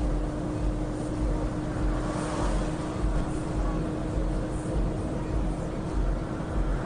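Steady low rumble of a truck's engine and tyres on the road, heard from inside the cab, with a constant droning tone running under it.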